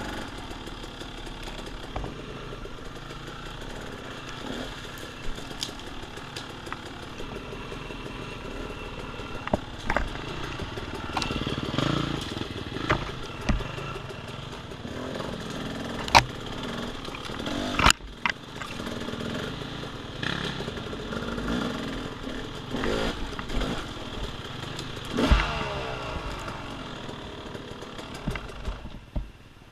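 Off-road motorcycle engine running and revving up and down on a woods trail, with several sharp knocks and clatters as the bike strikes obstacles. The engine note falls away near the end.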